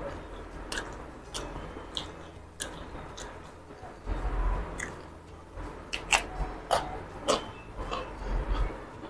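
A person chewing and biting crisp cucumber slices close to the microphone: irregular sharp wet mouth clicks and crunches, coming thickest a little past halfway.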